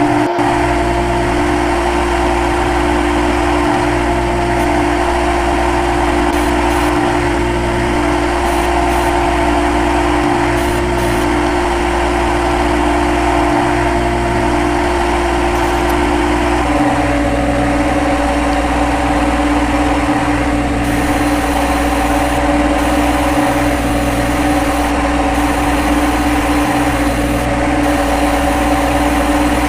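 CNC lathe running steadily, a machine whine over a low hum; its pitch steps down once a little over halfway through.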